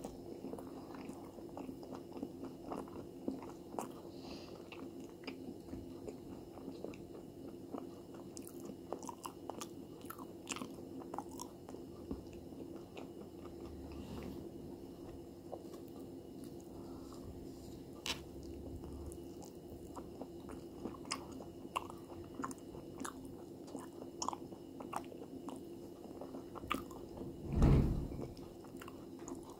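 Close-up chewing of crisp food with the mouth closed: many small crunches and mouth clicks. Near the end there is a single louder thump.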